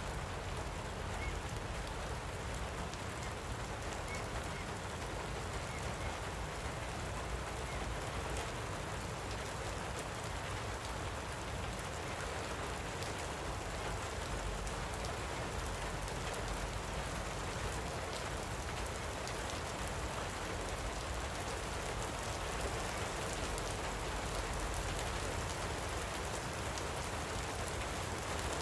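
Steady light rain falling, a dense patter of drops.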